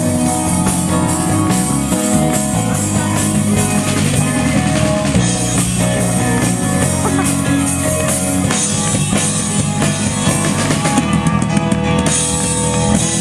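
Rock-style worship band music, with drum kit and electric guitar playing an instrumental passage between sung lines of the song.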